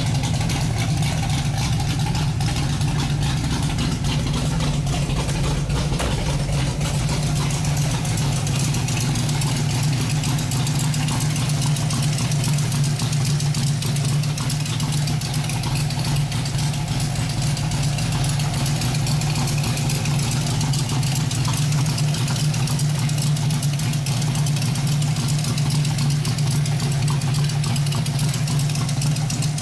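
A built Ford 302 V8 (GT40 heads, 1.6 roller rockers, Ford Racing Z cam, Victor Jr intake) in a 1982 Mustang idling steadily, with no revving. It is running well now that its fuel starvation problem is sorted.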